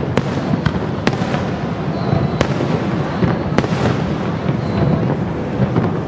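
Aerial fireworks display bursting overhead: a continuous low rumble of booming shells, broken by sharp cracks about once a second.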